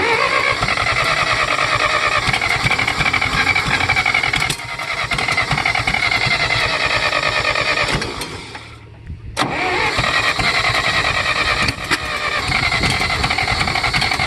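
1964 John Deere 1010 tractor engine cranking on its starter during a cold start without catching: a long crank of about eight seconds, a short pause, then cranking again.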